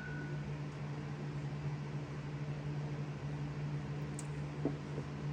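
Steady low hum of a fan or household appliance in a small room, with a faint light tap about four and a half seconds in.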